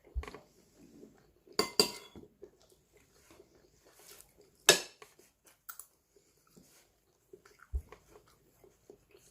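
Cutlery clinking and scraping against a plate during a meal: a scatter of sharp clicks at irregular intervals, the loudest about halfway through.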